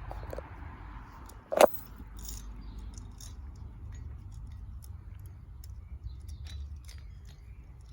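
Light metallic clinks and rattles of a parrot toy and cage hook being handled while the toy is hung, over a low handling rumble, with one sharp loud clack about a second and a half in.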